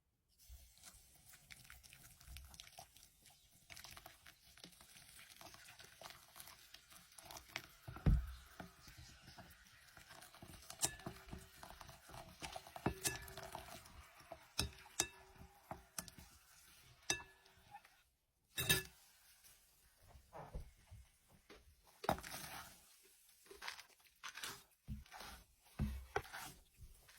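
Dry clay crunching and crumbling, a long run of irregular sharp cracks and crackles over a soft rustle.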